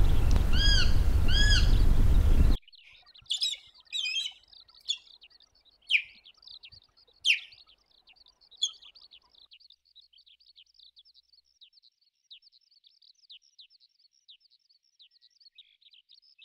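Birds calling. A loud rushing noise carries an arched call note repeated four times, then cuts off. Scattered calls follow, including two loud down-slurred whistles, then a long, fast series of thin, high chipping notes.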